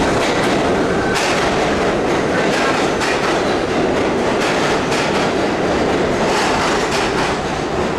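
New York City Subway A train running, heard from inside the car: a steady, loud running noise from wheels on rail, with irregular clicks and clatter over the track.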